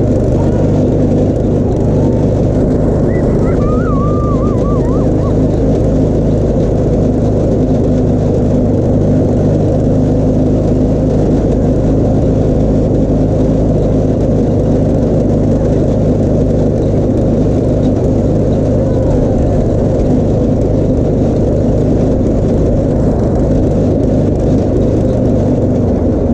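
Go-kart's small engine running steadily under way, a constant even drone with no breaks.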